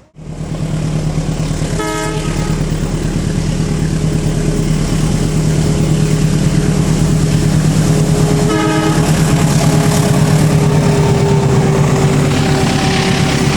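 Train passing close by, its locomotive running with a steady low drone that grows louder over the first several seconds, and two short horn toots about seven seconds apart.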